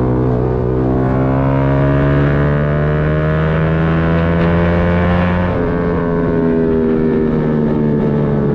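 Yamaha MT-125's single-cylinder 125 cc four-stroke engine pulling under acceleration, its pitch climbing slowly. It drops at an upshift about five and a half seconds in, then holds steady in the next gear.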